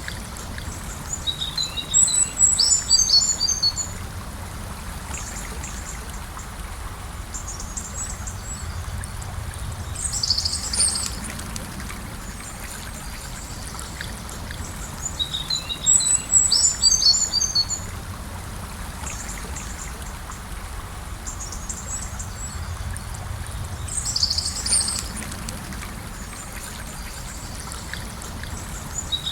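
Gentle river flowing steadily, with small birds singing over it: a high chirping phrase repeats every six or seven seconds.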